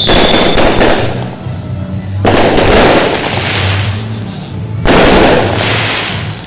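Fireworks exploding overhead: three loud bursts about two and a half seconds apart, each dying away over about a second. A high whistle from a rising shell fades out just as the first burst goes off.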